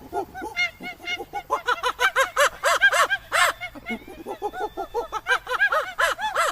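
Geese honking: many short overlapping calls from several birds, growing busier about a second and a half in.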